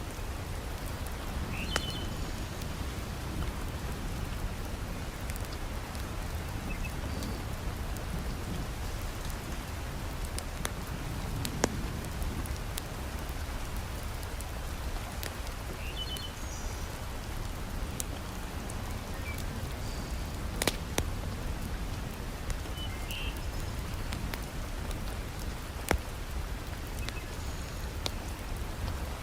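Heavy rain falling steadily, with a few sharp pops from a crackling wood fire in a fireplace.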